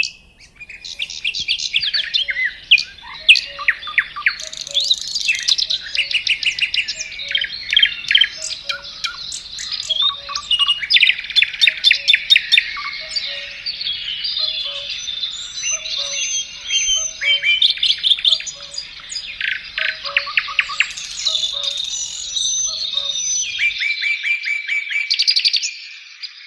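A chorus of several songbirds singing at once: rapid trills, whistles and chirps overlapping one another. Near the end the faint low background underneath drops away.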